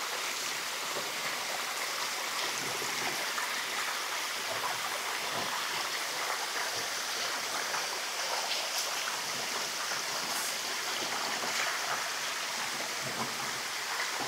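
Steady rushing of running water, like a nearby stream, with faint scattered ticks over it.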